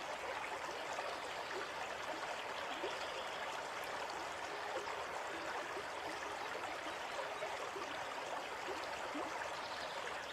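Steady running water, a continuous trickle with small gurgles scattered through it.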